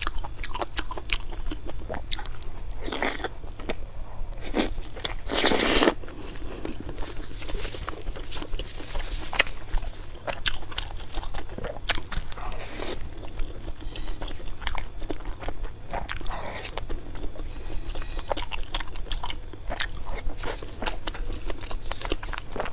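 Close-up mouth sounds of someone biting and chewing saucy skewered food: a run of wet clicks and smacks, with one louder noise lasting about half a second around five and a half seconds in. A steady low hum sits underneath.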